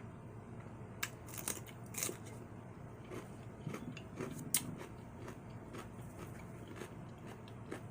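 Close-up eating: a few sharp, crisp crunches and clicks of biting, the loudest about a second, two seconds and four and a half seconds in, with softer chewing sounds between.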